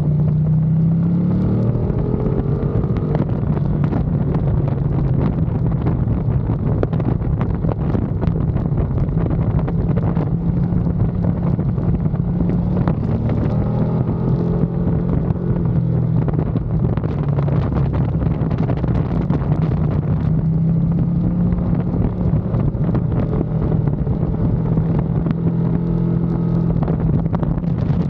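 Ducati Panigale V2's twin-cylinder engine running hard on track, its revs rising and falling several times through corners and gear changes, with wind rushing over the microphone.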